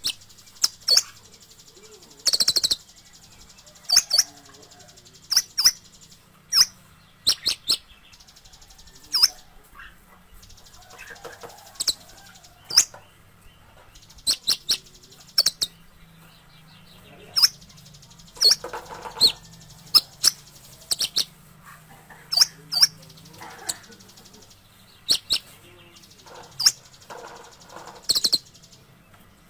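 Kolibri ninja, a small sunbird, calling in short, sharp, high chirps, spaced irregularly and sometimes in quick pairs.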